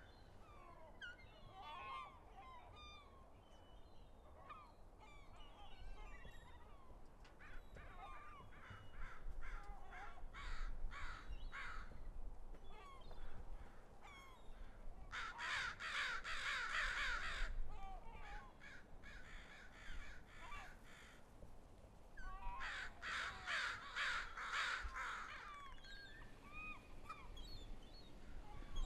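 A flock of birds calling, with scattered single calls throughout and three dense bursts of many overlapping calls, about 9, 15 and 23 seconds in.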